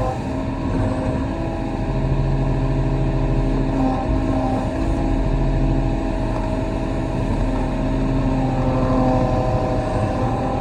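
Kobelco SK35 excavator's diesel engine running steadily with a hum of tones over it, working harder from about two seconds in.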